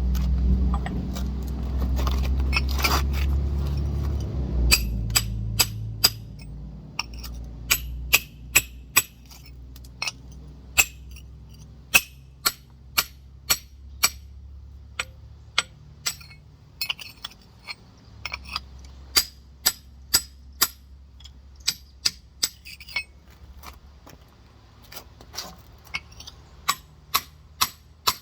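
Rock hammer striking a large geode again and again, sharp ringing knocks about one to two a second, as the stone is tapped to crack it open. A low rumble fades out over the first few seconds, before the knocks begin.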